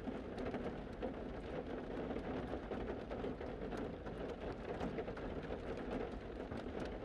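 Rain falling on a car's roof and sides, heard from inside the car: a steady hiss made of many quick drop impacts.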